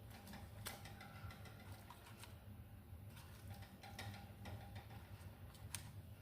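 Faint scattered light clicks and taps over a low steady hum.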